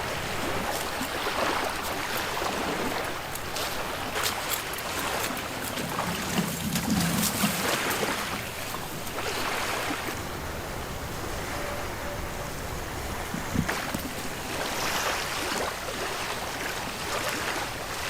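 Waves washing onto a beach, swelling and fading every few seconds, with wind on the microphone and a few faint clicks.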